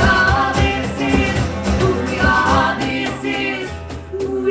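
Live band with singing and guitars playing the last bars of a rock song, the vocals holding long notes over a steady beat, the music dying away near the end.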